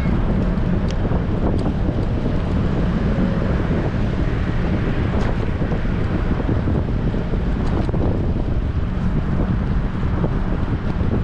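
Strong wind buffeting an action camera's microphone on a moving bicycle: a steady, loud, low rumbling rush with a few faint clicks.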